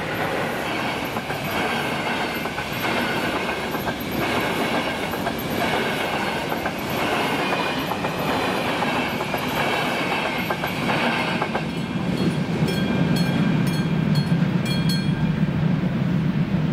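Passenger train hauled by a Siemens Vectron electric locomotive passing at speed, its wheels clattering rhythmically over the rail joints. The clatter stops about eleven and a half seconds in as the last coach clears, leaving a lower rumble.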